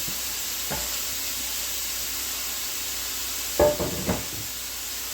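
Chicken thighs sizzling steadily in hot olive oil in a skillet as they sear. A short knock comes early, and a louder cluster of knocks comes about three and a half seconds in.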